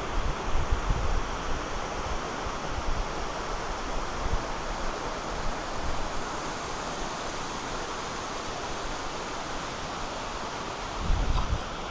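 Steady rushing of a waterfall, with gusts of wind buffeting the microphone.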